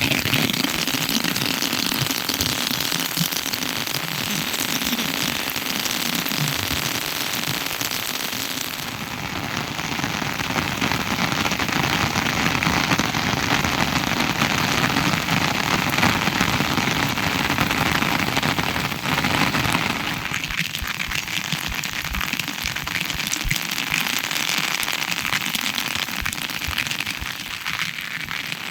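Steady rain falling, a dense patter of many drops on a surface, with the character of the patter changing about nine seconds in.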